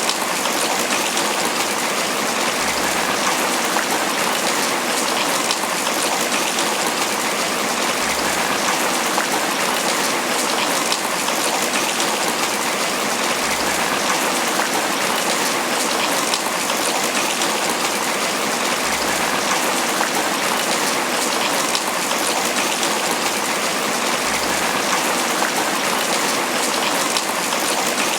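Steady tropical rain falling on banana leaves: an even, unbroken patter of many drops.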